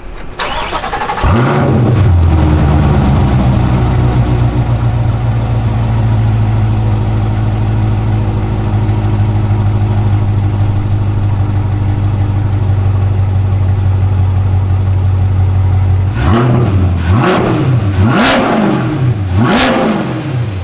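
2023 C8 Corvette's 6.2 L LT2 V8, breathing through American Racing long-tube stainless headers, stock cats and an LMR stainless cat-back exhaust, starts about a second in and settles into a steady fast idle. Near the end it is given a series of quick throttle blips.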